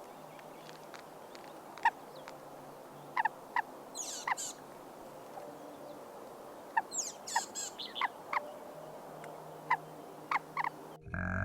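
Scattered short, sharp chirps and peeps from small animals, with a couple of clusters of higher twitters about four and seven seconds in, over a faint low hum. Near the end a loud cow's moo cuts in.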